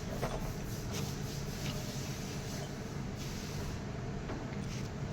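Steady low mechanical hum with a few faint light taps in the first couple of seconds.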